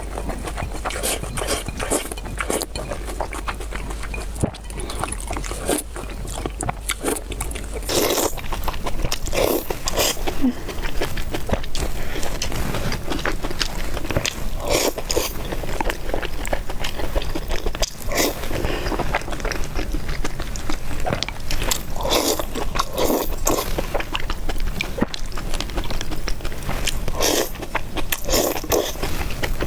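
Close-miked eating sounds: a person chewing and slurping spicy noodles and soup, with many short irregular clicks and smacks that grow busier about eight seconds in.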